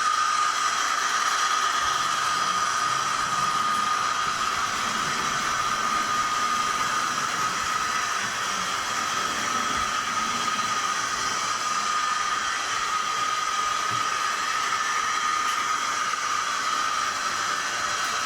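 SDS Models NR class diesel locomotive model with a DCC sound decoder running: its small speaker gives a steady, hissy diesel engine sound with a thin, steady high whine through it.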